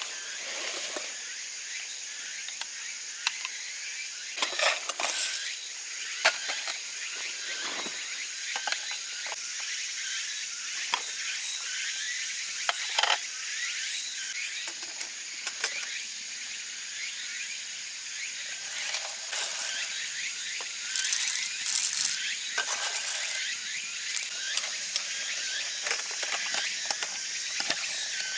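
Wood campfire crackling and popping irregularly over a steady hiss.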